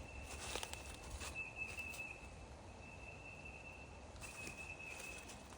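Faint footsteps of a hiker walking a nature trail, a few soft irregular steps, with a thin steady high tone throughout.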